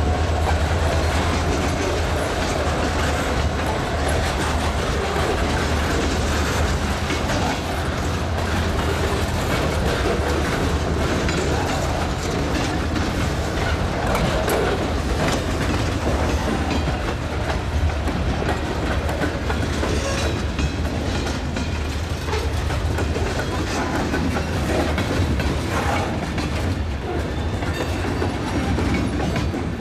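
Freight train cars rolling past, their steel wheels clacking over the rail joints over a steady rumble.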